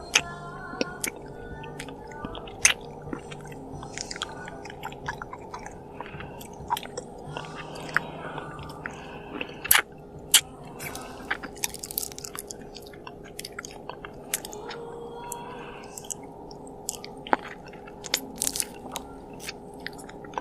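A person chewing and biting food close to the microphone, with many irregular sharp mouth clicks throughout.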